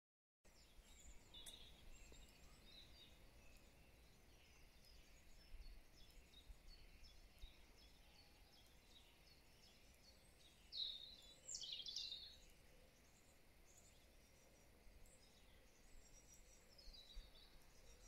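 Faint birdsong: scattered chirps and short high phrases, with a louder burst of chirping about eleven seconds in, over a faint low rumble.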